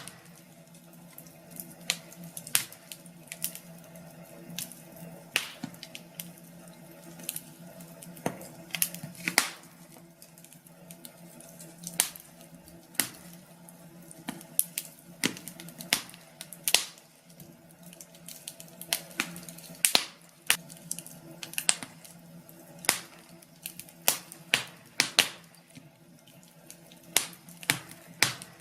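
Wood fire crackling: irregular sharp pops and snaps, sometimes several in quick succession, over a faint steady hum.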